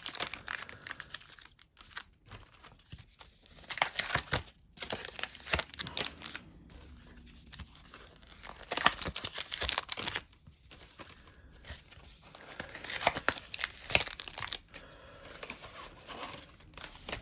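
Foil booster pack wrappers being torn open and crinkled by hand, in several rustling bursts with quieter handling between.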